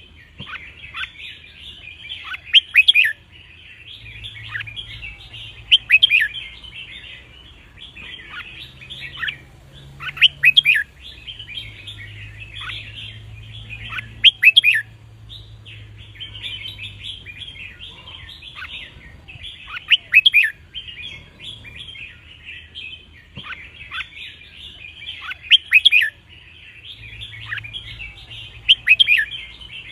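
Red-whiskered bulbuls singing: a loud, quick song phrase every few seconds over a steady bed of busy chattering twitter.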